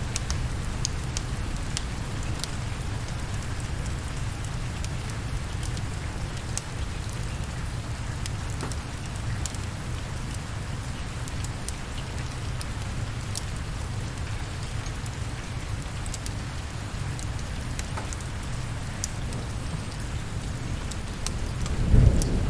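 Steady, heavy rain with scattered sharp ticks of drops. Near the end a low rumble of thunder swells up suddenly and is the loudest moment.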